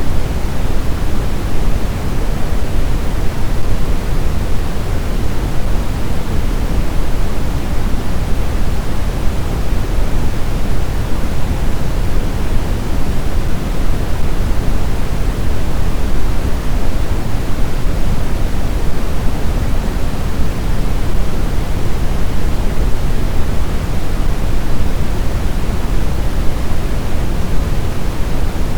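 Blizzard wind ambience: a loud, steady, even rush of noise, heaviest in the low end, with no distinct gusts or howls.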